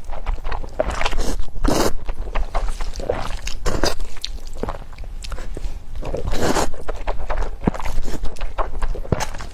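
Close-miked eating of instant fire noodles: several long slurps between wet chewing and small mouth clicks.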